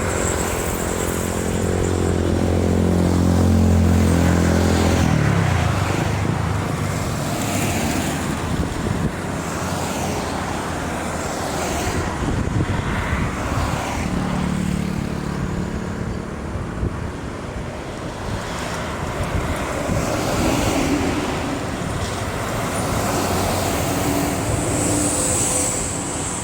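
Hino diesel truck's engine running, with road and traffic noise. A steady engine tone for the first five seconds or so gives way to mostly rumbling road noise, and the engine tone returns briefly around the middle.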